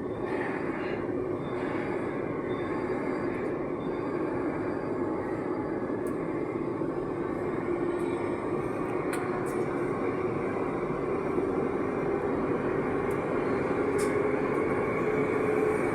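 Running noise of an AS-02 metro train heard from inside the car: a steady rumble with a hum that slowly rises in pitch and grows a little louder over the second half.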